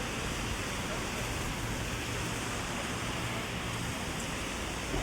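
Heavy rain falling steadily as an even hiss, on the street and on an umbrella held overhead, with a low steady hum underneath.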